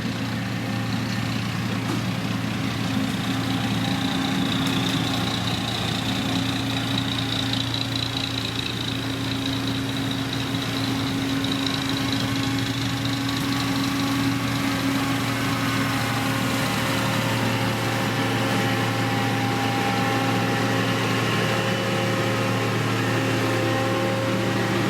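Diesel engine of a heavy road-construction machine running steadily, a low even hum with a faint high whine above it.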